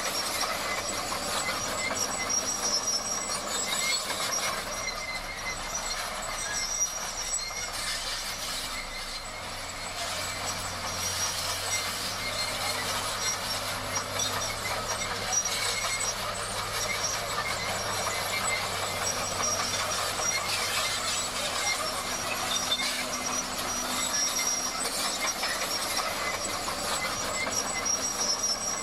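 Crawler bulldozer working, its diesel engine running steadily under a constant clank and high squeal of the steel tracks.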